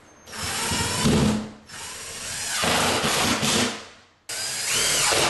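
Power drill driving screws through the wall into a wooden backing strip behind the drywall hole. It comes in three runs of the motor: about a second and a half, then about two seconds, then a last run starting abruptly near the end.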